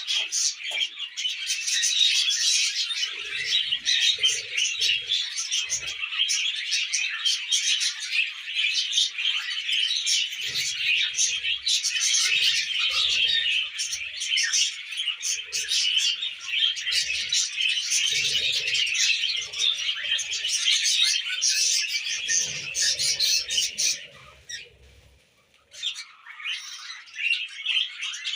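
Several budgerigars chattering and warbling continuously in quick, scratchy twitters, stopping for a moment about three-quarters of the way through, then starting up again.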